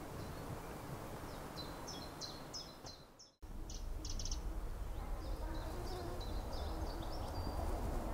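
Small birds chirping in quick runs of short, high chirps over a steady low background rumble. The whole sound drops out abruptly a little over three seconds in, then comes back with the rumble louder and the chirping going on.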